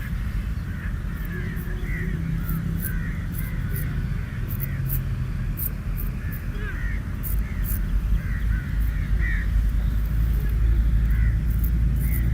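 Birds calling in many short chirps over a steady low rumble.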